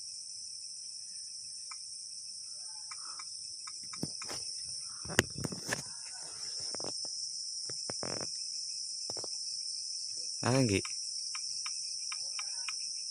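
Night insect chorus of crickets, a steady high-pitched trill, with a few sharp clicks and knocks about four to six seconds in.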